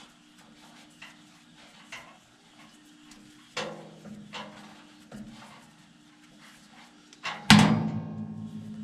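Hand wrench and metal parts of a furnace blower clinking and knocking as the stripped motor mount is worked by hand, over a faint steady low hum. About 7.5 s in comes one loud metal clang that rings on.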